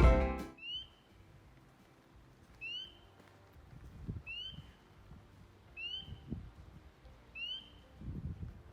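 A bird repeating a short, rising, mewing call about every second and a half, in the quiet woods, with a few soft low thumps.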